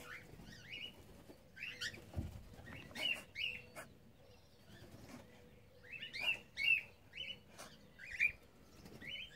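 Cockatiels giving short chirping calls that slide up and down in pitch, scattered through, coming more often from about six seconds in, with a few sharp ticks among them.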